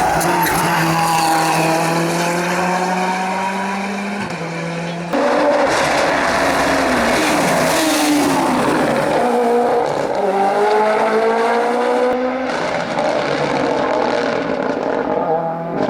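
Hillclimb race cars at full attack, engines revving up and dropping back through gear changes. The sound cuts abruptly between cars about five seconds in and again about twelve seconds in.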